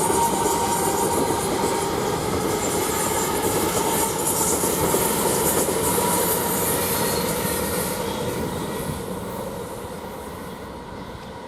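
A Class 345 electric train runs through the station, with a steady whine over its wheel and track noise. The noise stays loud for most of the time, then fades away over the last few seconds as the train moves off.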